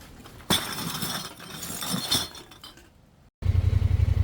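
A sudden burst of noise with clinking, splashy high edges that lasts about two seconds and fades, then after a brief cut a vehicle engine starts up loud with a low, steady throb about three seconds in.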